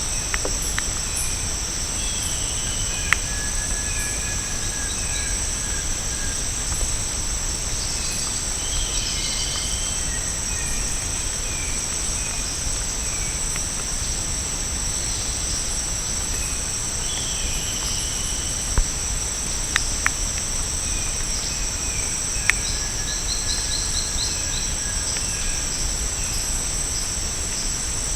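Tropical rainforest insect chorus: a steady, high-pitched buzz that does not let up, with scattered short bird chirps and whistles and a few sharp knocks.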